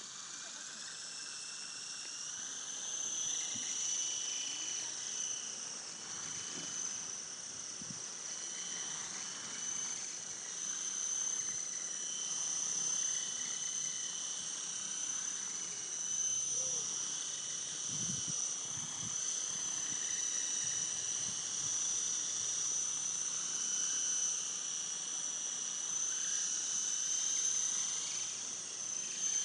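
Small electric RC helicopter running, its motors and rotors giving a steady high-pitched whine whose pitch wavers slightly.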